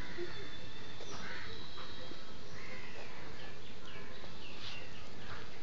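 Birds calling in a garden: many short chirps and quick rising and falling notes, scattered and overlapping, over a steady low background rumble.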